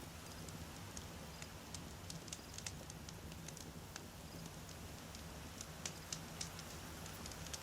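Wood campfire burning: irregular sharp crackles and pops from the burning logs over a low steady rumble, with a couple of louder pops about six seconds in.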